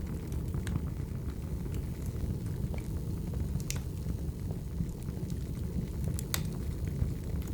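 Burning firewood crackling: a steady low roar of the fire with sharp pops scattered through it, the loudest about six seconds in.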